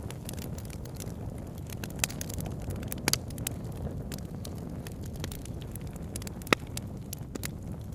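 Campfire crackling, with frequent small snaps and a few sharp pops, the loudest about six and a half seconds in, over a steady low rumble.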